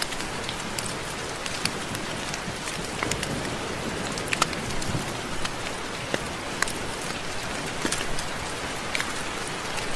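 Steady rain falling, with many separate drops tapping sharply on a nearby surface over a continuous hiss.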